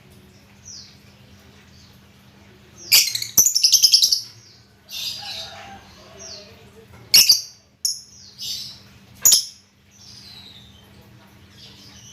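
Pet bird calling in short, loud, high-pitched bursts: a fast run of repeated notes about three to four seconds in, sharp single calls near seven and nine seconds, and fainter falling chirps in between. A steady low hum runs underneath.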